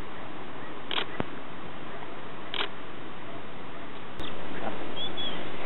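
Two short, harsh bird calls about a second and a half apart over a steady hiss. About four seconds in there is a click, and the camera's handling noise turns louder.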